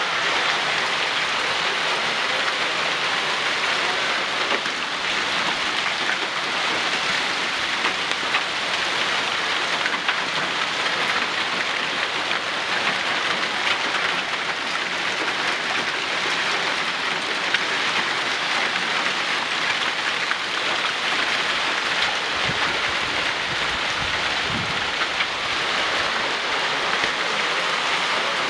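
Heavy rain falling steadily in a thunderstorm, a dense even hiss that holds at the same level throughout.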